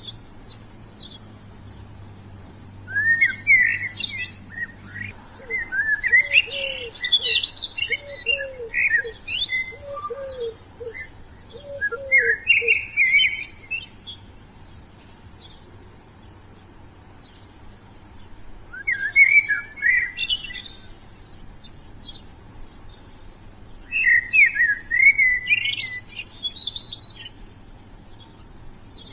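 Wild songbirds singing in bursts of quick, high, twittering chirps, with pauses of a few seconds between phrases. In the first half a lower, short arched note repeats about once or twice a second under the song.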